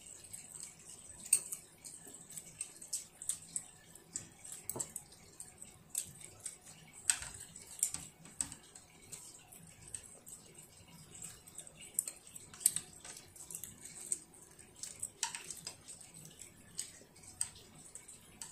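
A child chewing grilled meat: soft wet mouth smacks and clicks at irregular intervals.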